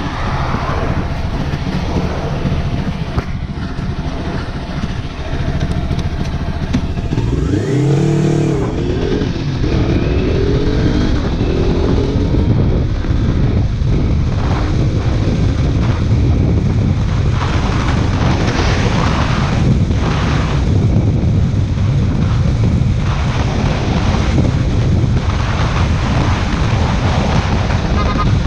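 Kawasaki Ninja 400 parallel-twin with an aftermarket exhaust running on the road under heavy wind noise on the microphone. About eight seconds in, the engine note swings briefly up and down, and it grows a little louder after that.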